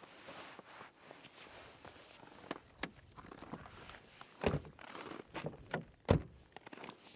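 Footsteps with irregular knocks and thuds, the two loudest about four and a half and six seconds in.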